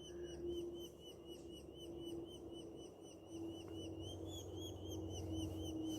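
Nestling birds in a tree's nest hole chirping non-stop at about four short chirps a second, begging for food.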